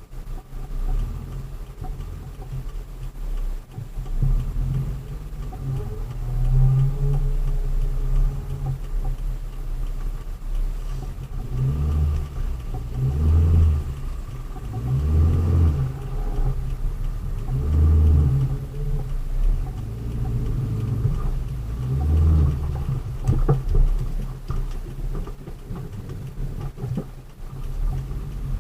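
Vehicle engine and road noise from inside the moving cab, a steady low rumble with several stronger low swells a couple of seconds apart in the second half.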